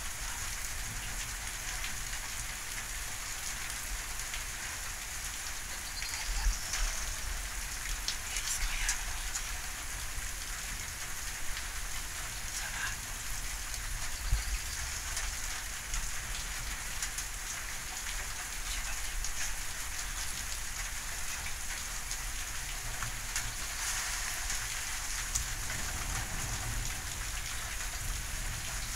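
Steady rain from a thunderstorm, an even hiss with scattered sharper taps of individual drops.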